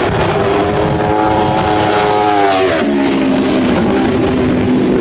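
A superbike passing at racing speed: its engine note held high and sliding slowly down, then dropping sharply in pitch about three seconds in as it goes by, and running on at a lower, steady pitch as it pulls away.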